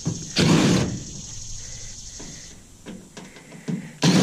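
Heavy stainless steel steamer cabinet being tipped over onto its side: two loud metal clattering thuds, one about half a second in and one near the end, with light knocks and rattles between.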